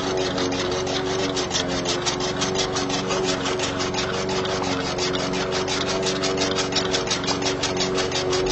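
Small electric motor of a DIY toy chaff cutter running steadily, humming under a rapid, even clatter of about six ticks a second as it chops.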